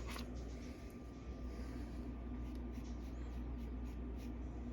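Dry-cleaning sponge being wiped over a comic book's paper cover: faint, irregular scratchy rubbing strokes over a steady low electrical hum.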